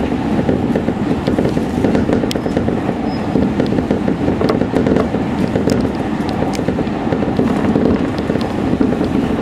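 Seibu Railway electric commuter train running at speed: a steady rumble of wheels on rail with scattered faint clicks, heard from inside the front cab.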